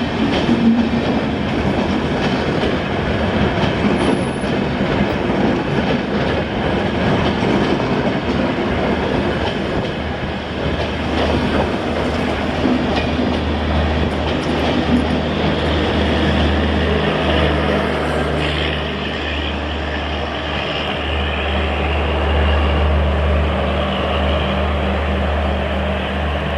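LHB passenger coaches rolling past at speed, wheels clicking over rail joints with some squeal. About ten seconds in, a steady low engine drone joins and holds.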